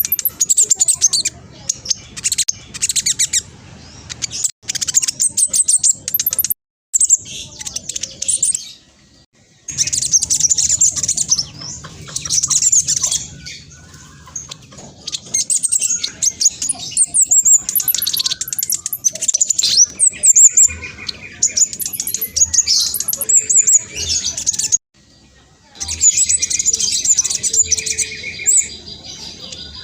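Black sunbird singing: fast, high-pitched twittering and trilled phrases that come in dense bursts, broken by several short pauses.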